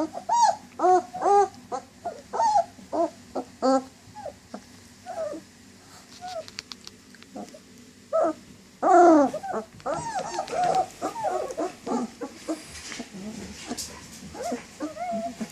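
German shepherd whining and whimpering in a long string of short, high cries that rise and fall in pitch. There is a lull about six seconds in, then the loudest cry about nine seconds in, and the whining goes on after it.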